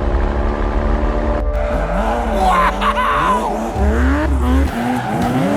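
Car engine revving, its pitch rising and falling, with tyres squealing about two and a half seconds in.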